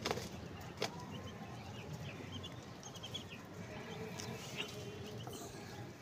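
Faint short high bird chirps scattered through the middle few seconds over a low background hum, with two sharp knocks in the first second.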